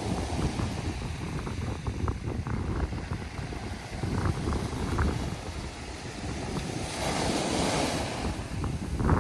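Sea waves washing over a pebble beach: a steady low rumble with many small clicks of stones knocking together. A louder hissing surge of water comes about seven seconds in, and another near the end.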